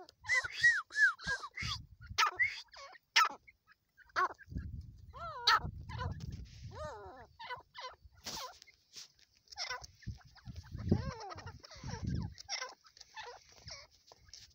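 Partridge (teetar) calling: a string of short, arched notes repeated at uneven intervals, with a low rumbling noise underneath at times.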